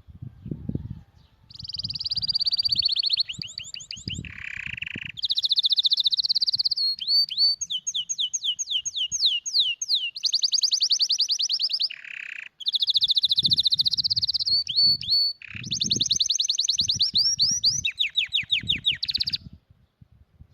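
Domestic canary singing a long song of fast trills and rolls, each a quick series of repeated notes, switching from one tour to the next with brief breaks. The song starts about a second and a half in and stops near the end.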